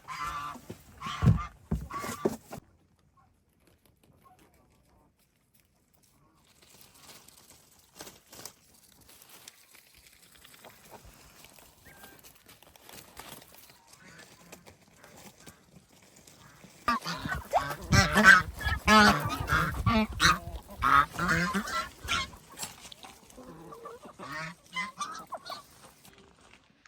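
Geese honking: a few calls at first, then a loud run of wavering calls for about six seconds past the middle, tailing off into quieter ones.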